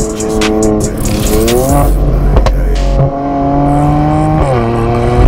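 A car engine revving, its note climbing in pitch about a second in and again near the end, mixed with background music.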